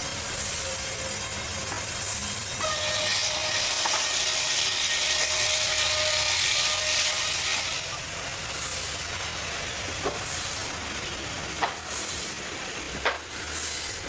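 Serra Africa XE160 mobile bandsaw mill cutting kumaru (shihuahuaco) hardwood: a steady hissing of the blade in the wood with a faint whine. It gets louder from about three seconds in and eases off after about eight, and a few sharp knocks follow near the end.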